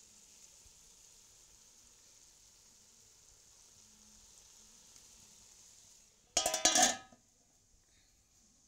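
Onion and green chilli masala frying in a pan, a faint steady sizzle. About six and a half seconds in there is a loud, brief clatter lasting under a second.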